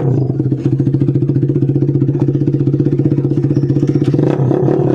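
Yamaha SZ's single-cylinder four-stroke engine idling steadily with a fast, even exhaust beat, just after its fuel mixture has been fine-tuned.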